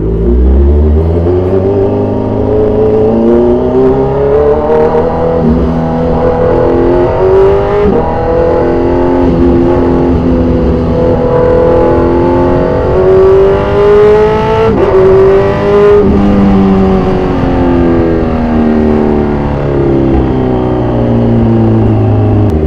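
2014 Kawasaki Z1000 Sugomi's inline-four engine breathing through aftermarket exhausts, accelerating with its pitch climbing and stepping at gear changes for about fifteen seconds, then easing off with the pitch falling.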